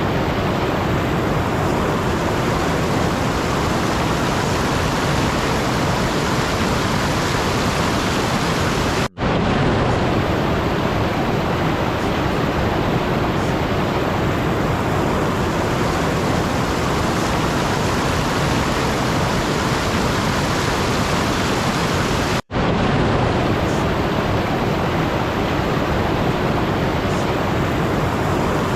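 A steady rushing noise, even like pink noise or a distant waterfall, with no tone or rhythm in it. It cuts out for an instant twice, about nine seconds in and again about twenty-two seconds in.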